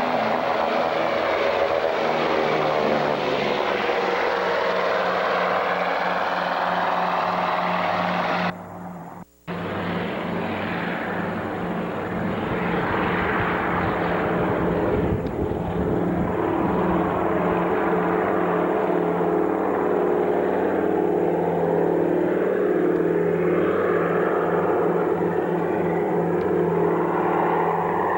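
The twin Pratt & Whitney R-1830 radial piston engines of a PBY-5A Canso water bomber run steadily with their propellers turning. Their drone shifts slowly in pitch. The sound drops out briefly about nine seconds in.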